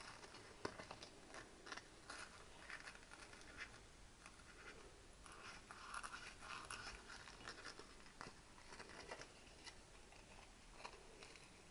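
Faint scratching with light clicks, in short bouts, of sandpaper rubbing the end of a valve stem to smooth a small burr left by the valve collet.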